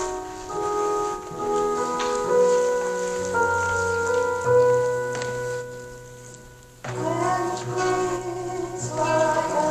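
Church offertory music: a keyboard playing slow held chords that die away about six seconds in, then voices singing with the keyboard accompaniment from about seven seconds in.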